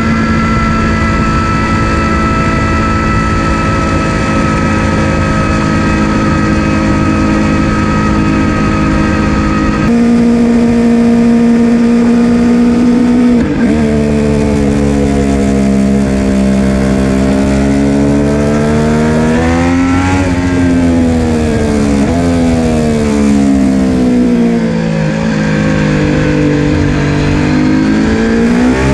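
Triumph Street Triple RS 765's inline three-cylinder engine through its stock muffler with the secondary catalytic converter removed. It runs at a steady pitch for about ten seconds. After a break and a sudden dip in pitch, the revs climb, fall back, level off and climb again near the end.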